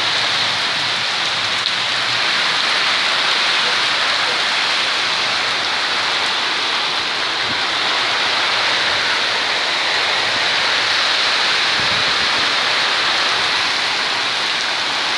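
Heavy rain pouring steadily in a windstorm, a dense, even hiss that does not let up.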